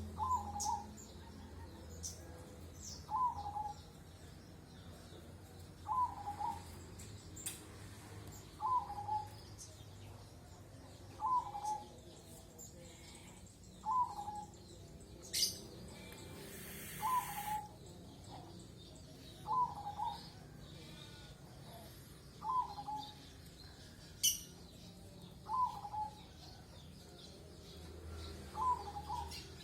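A bird calling at night: a short note, dropping slightly in pitch, repeated steadily about every three seconds, eleven times. A few sharp clicks and a brief hiss come between the calls.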